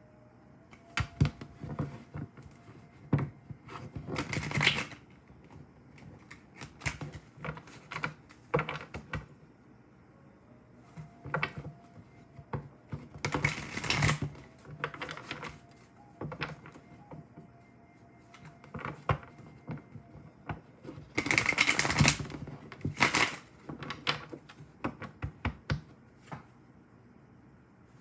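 A deck of tarot cards being shuffled by hand: scattered sharp clicks and taps of cards, with three longer riffling bursts, the loudest about three quarters of the way through.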